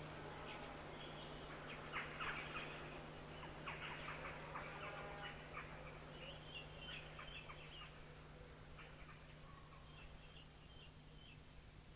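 Bird calls in short chattering bursts, growing fainter and sparser toward the end, over a low steady hum.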